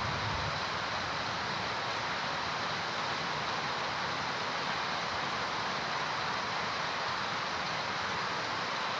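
Heavy tropical rain falling on trees, foliage and ground: a steady, even hiss.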